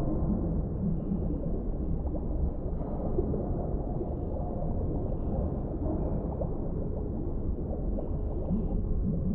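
Underwater ambience: a steady deep rumble with faint gurgling and bubbling and a few brief high tones.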